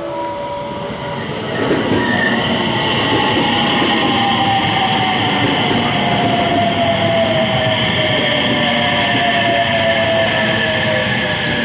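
JR West electric train running alongside the platform, loud and steady from about two seconds in. A whine slowly falls in pitch as the train slows.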